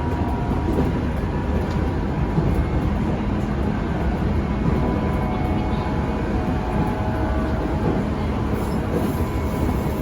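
Running noise heard inside a motor car of a JR 205-500 series electric multiple unit: a steady rumble of wheels on rail with a few faint steady tones over it.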